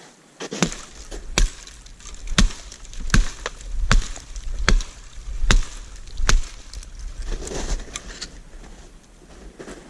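Wood being chopped: seven sharp, evenly spaced strikes, about one every 0.8 seconds, then softer knocks near the end.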